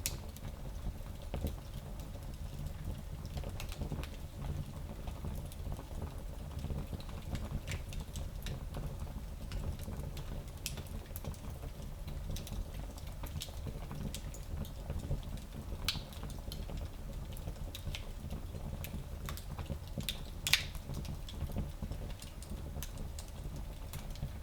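Fire burning in a small fireplace: a steady low rumble with scattered crackles and pops, the loudest pop about twenty seconds in.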